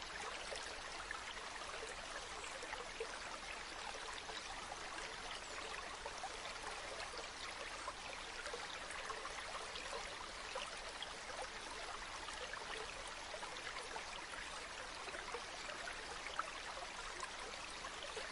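A river or stream flowing steadily, a constant rush with small splashes and trickles.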